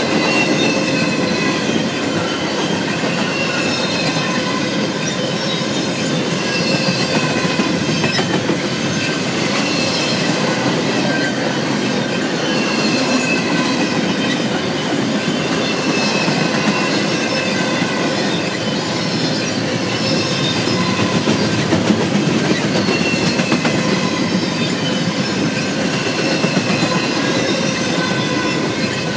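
Freight train rolling past, its car wheels squealing in repeated short, falling squeals over a steady rumble and clatter of wheels on the rails.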